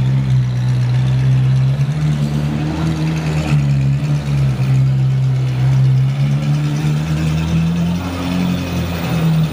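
Ferrari 458 Speciale's V8 running at low revs as the car pulls away slowly, a steady low engine note that rises and falls slightly in pitch.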